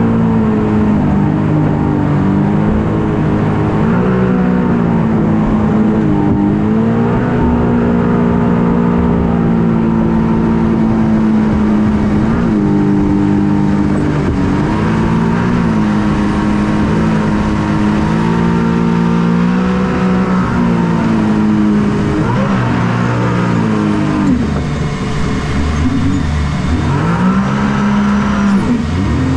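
Engine of a Hydro Attack shark-shaped watercraft running loud under changing throttle, its pitch rising and falling again and again.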